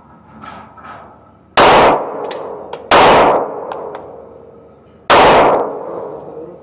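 Three pistol shots, each a sharp crack with a ringing tail: two about a second and a half apart, then a longer pause before the third.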